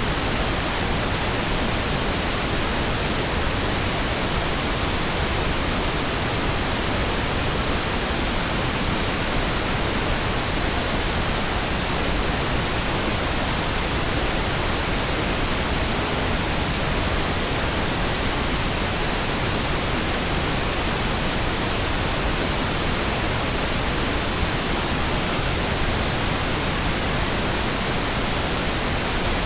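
Synthetic pink noise, a smooth, even hiss that holds steady with no changes.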